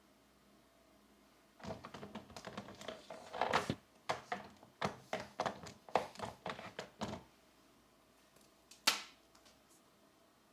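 Colored pencils on paper: a fast run of short scratchy, clicking strokes lasting about five seconds, then one sharp click near the end.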